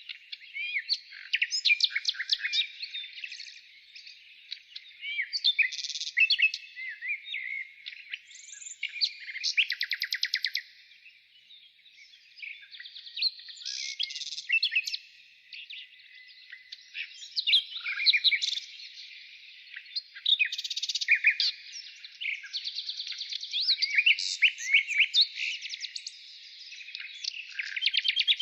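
Songbirds singing and calling: a dense, varied stream of chirps, short whistles and fast rattling trills, with a brief quieter lull about halfway through.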